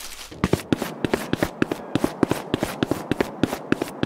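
Quick footsteps sound effect: an even run of crisp taps, about six a second, starting about half a second in.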